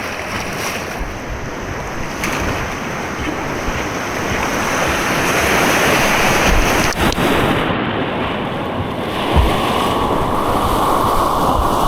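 Rushing white water with wind noise on the microphone, steady throughout; a sharp knock about seven seconds in and a low thump just after nine seconds.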